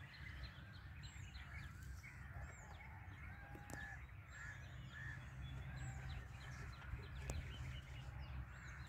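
Faint outdoor ambience of small birds chirping: short high calls that sweep downward, about one or two a second, with some lower chirps among them. A low steady rumble lies underneath, and there are two faint clicks.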